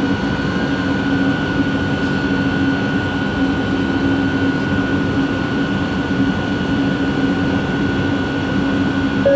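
Bombardier Innovia ART 200 metro train heard from inside the car: a steady running rumble with a constant high whine and a lower hum, holding the same pitch throughout.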